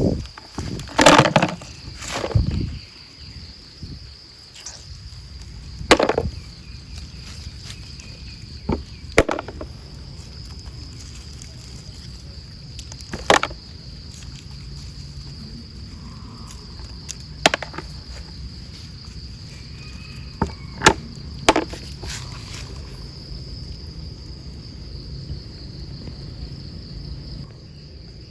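Insects trilling in one steady, continuous high note. Sharp snaps and knocks cut in about every few seconds, loudest and most frequent in the first few seconds, with a low steady rumble beneath.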